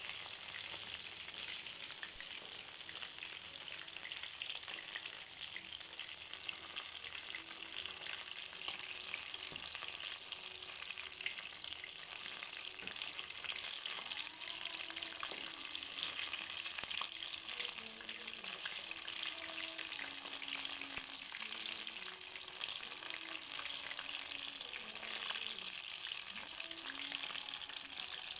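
Breaded chicken pieces deep-frying in hot oil: a steady, dense sizzle and crackle of bubbling oil.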